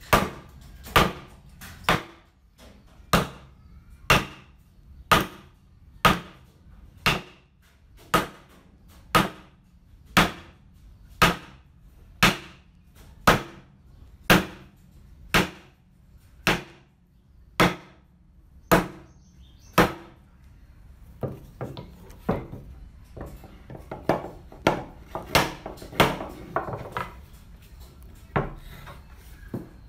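Hammer blows on wood in hand-cut joinery work: evenly paced strikes about one a second, then lighter, quicker and irregular taps for the last third.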